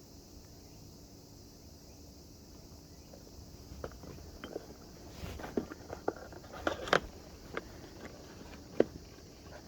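Quiet at first, then an irregular series of light knocks and clicks from about four seconds in, with the loudest pair of knocks near the middle and one more sharp knock near the end.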